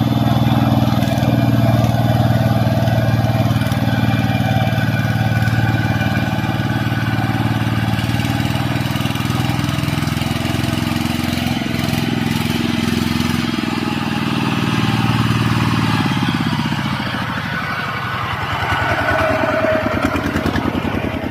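Motor vehicle engine running while driving, its pitch rising and falling with the throttle, easing off about two-thirds of the way through and picking up again near the end.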